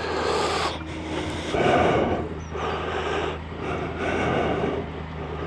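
Triumph Tiger 900 three-cylinder motorcycle engine running steadily under way, with swells of rushing noise about once a second.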